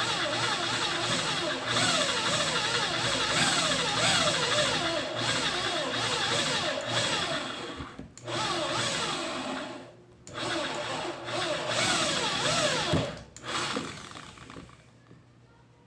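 Small electric motor running under varying load, its whine rising and falling in pitch over and over. It cuts out briefly twice and stops near the end.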